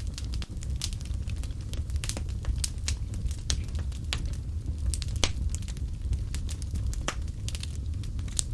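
Fireplace fire crackling: a steady low rumble with irregular sharp pops and snaps, several a second, some louder than others.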